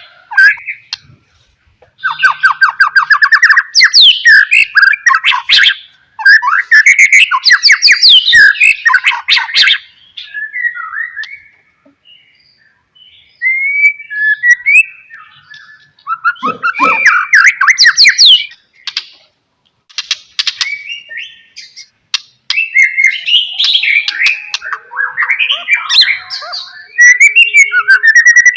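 White-rumped shama (murai batu) singing: loud, varied phrases of rapid trilled notes and sweeping whistles, in bursts of a few seconds with short pauses between.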